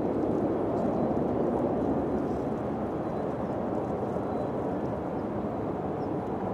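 Steady, low wind blowing without gusts, easing very slightly over a few seconds.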